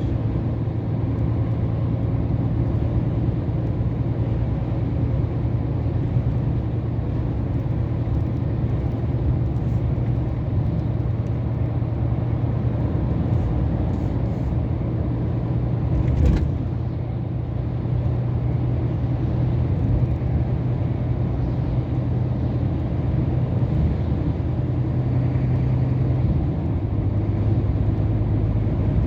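Scania R500 truck's V8 diesel running steadily under way, with road noise, heard from inside the cab. A single knock comes about halfway through, and the engine note shifts near the end.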